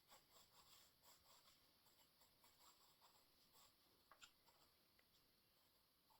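Faint pencil strokes scratching on drawing paper during a loose sketch: short scratchy strokes over the first few seconds, then a couple of light ticks.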